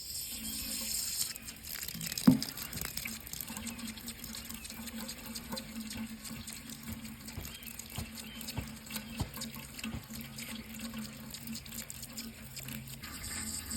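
Water running from a tap into a sink, steady, with a sharp knock about two seconds in and a few lighter clicks.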